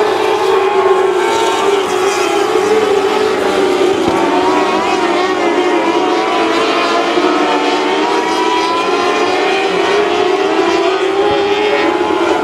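Mini sprint race cars' small engines running at high revs together on a dirt oval, several overlapping engine notes wavering up and down as the pack laps.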